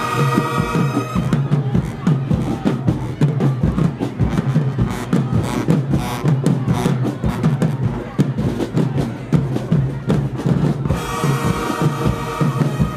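Marching band playing: the horns hold chords for the first second, then the drumline plays on its own with a steady beat, and the horns come back in near the end.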